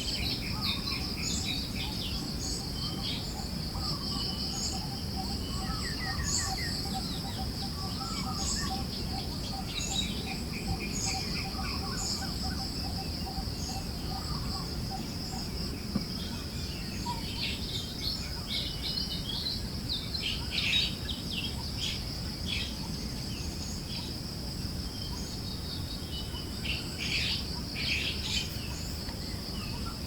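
Forest ambience: assorted birds chirping and calling over a steady high insect drone and a low, even rush of wind. A rapid, even series of notes runs through the first half.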